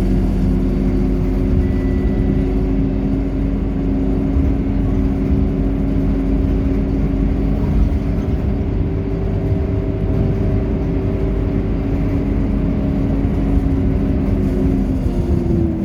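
Scania K230UB single-deck city bus engine running steadily as the bus drives, with a steady drone; near the end its pitch dips and then climbs again.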